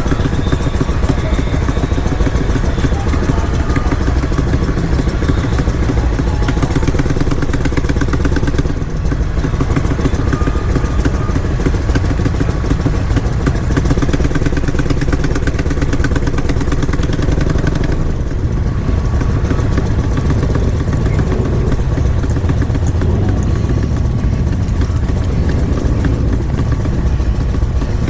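Motorcycle engines running steadily, a continuous loud low rumble.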